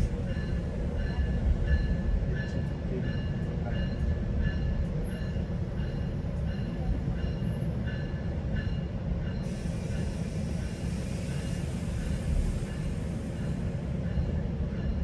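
GO Transit passenger train running along the track: a steady low rumble with a faint high-pitched tick or squeak repeating about twice a second. About ten seconds in, a steady hiss joins the rumble.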